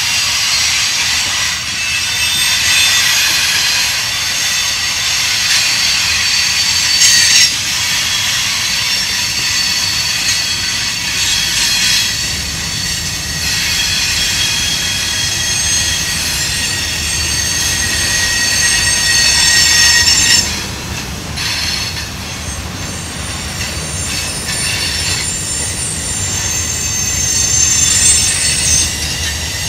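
Freight cars of a mixed freight train rolling past close by, wheels squealing in several high-pitched tones over a low rumble. The squeal swells briefly about seven seconds in and again just before twenty seconds in, then drops back.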